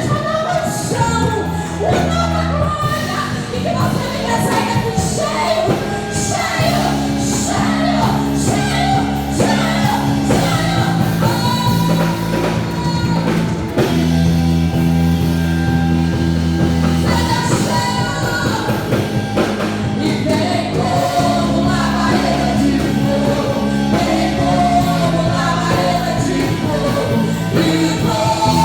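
Live worship music: a praise band with singing over sustained bass and chords in a large hall.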